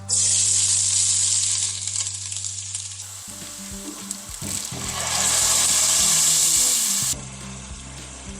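Food going into hot oil in a pan, sizzling loudly the moment it lands, easing off, then swelling again about halfway through before cutting off suddenly near the end.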